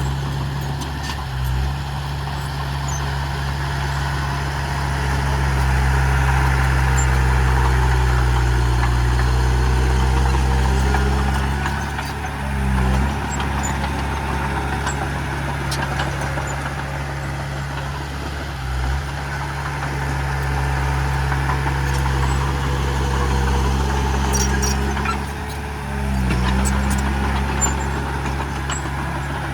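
Heavy diesel engine of earthmoving machinery running steadily, its engine speed dipping briefly about four times, with faint scattered clicks and clanks.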